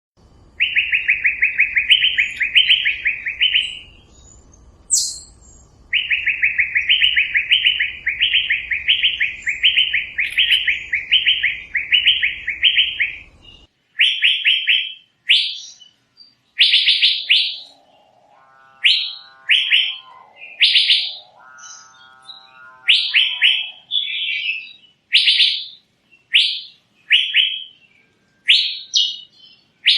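Asian fairy-bluebird (cucak biru) calling: runs of short, sharp, quickly repeated whistled notes, then separate notes about one a second. About two-thirds of the way through, a lower, buzzier call sounds twice underneath.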